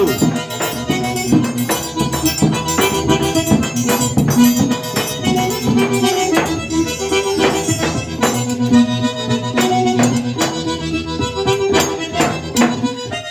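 Eight-bass button accordion (sanfona de oito baixos) playing a forró melody in an instrumental break, with percussion keeping a steady beat.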